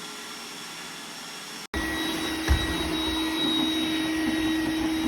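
iRobot Roomba 981 robot vacuum running with a steady whirring noise. About a second and a half in, the sound cuts out for an instant and comes back louder, with a steady hum. A short thump follows a moment later.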